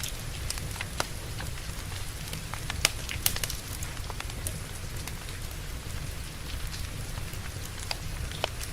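Steady rain under a wood fire crackling, with scattered sharp pops from the burning logs, the loudest about three seconds in.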